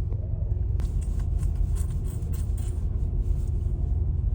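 Steady low rumble of a car ferry under way, heard from inside a car parked on its car deck, with a faint crackly hiss for a couple of seconds about a second in.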